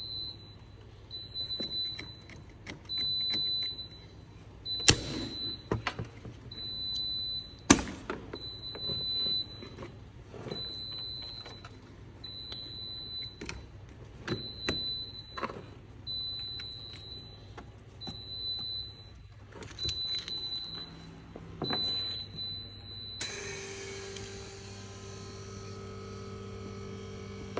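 High electronic beeping from an air-conditioning recharge machine, about one short beep a second, over scattered clicks and knocks of handling. At about 23 s the beeping stops and a steady motor hum starts suddenly.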